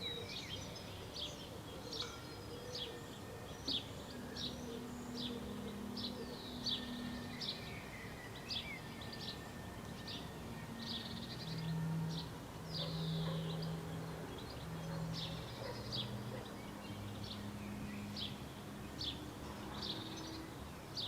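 A bird chirping over and over in short, high, falling notes, about one or two a second, over a faint low hum of background noise.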